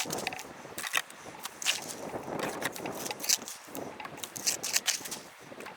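Irregular crunching and scraping of stony, gravelly dirt, a quick run of short crackly strokes over a steady hiss.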